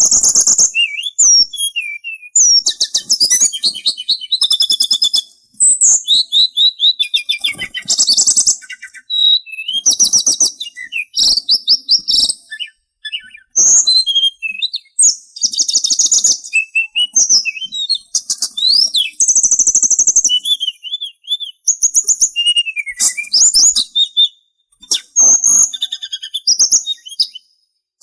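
Sulingan songbird singing: fast, high-pitched chattering trills and whistled notes in phrases of a second or two, broken by short pauses.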